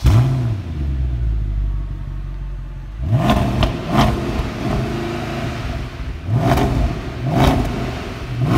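Mercedes C63 AMG's M156 6.2-litre V8 catching and starting with a loud flare, then idling. From about three seconds in it is blipped sharply several times, twice close together and then three more revs, each a quick rise and fall in pitch.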